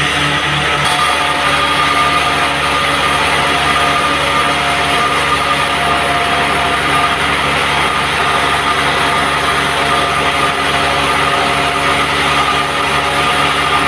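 Band sawmill running steadily: a loud, unchanging machine drone with a few steady tones.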